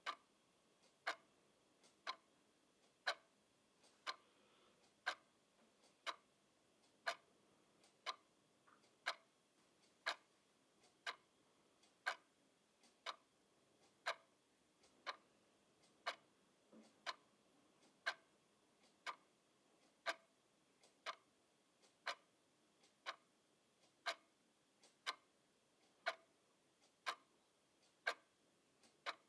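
Mechanical clock ticking steadily, about one sharp tick a second.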